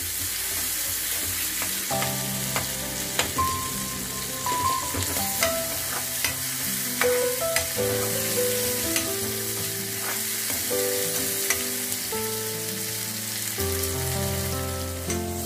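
Chopped onion and tomato frying in hot oil in a metal kadhai, a steady sizzle with a metal spatula stirring and clicking against the pan. From about two seconds in there is background music with held notes.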